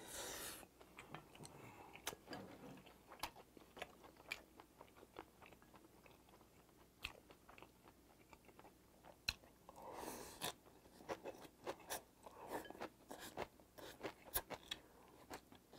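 Faint chewing of a mouthful of bibimbap, then bean sprouts: many small wet clicks and smacks of the mouth with crunching now and then, and a longer, louder mouth sound about ten seconds in.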